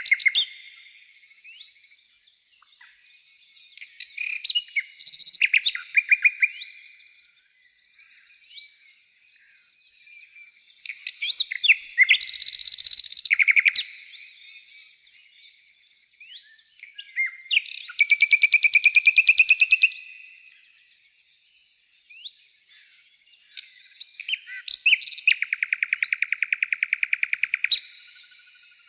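A songbird singing a long, varied song of short whistled notes and pitch slides, broken by three long, rapid trills.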